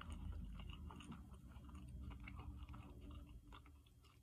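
Faint chewing of crinkle-cut fries: small mouth clicks that die away about three and a half seconds in.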